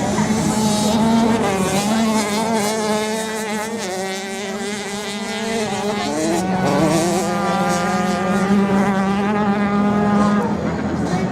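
Several racing motorcycle engines running at high revs, their pitch rising and falling as the bikes pass and change speed, with one sharp rise about six and a half seconds in.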